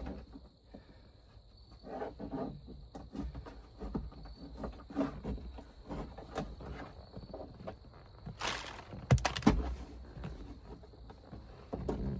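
Plastic interior trim piece being pried loose with a trim tool: scattered clicks, scrapes and handling noise, with a louder burst of clicking and rubbing about eight and a half seconds in.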